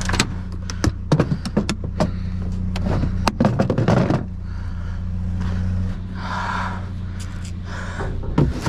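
A quick run of clicks and knocks, hard objects being handled, over the first four seconds, with a steady low hum underneath, typical of a vehicle engine idling; a brief scraping hiss comes about six seconds in.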